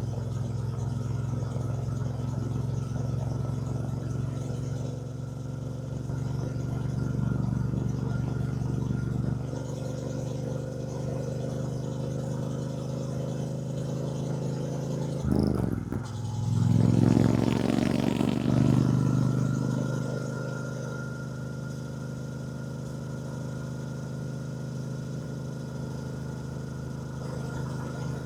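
2024 Triumph Bonneville T120's 1200 cc parallel-twin engine running steadily at road speed. About halfway through the sound breaks off briefly, then the engine pulls louder for a few seconds before settling back to a steady cruise.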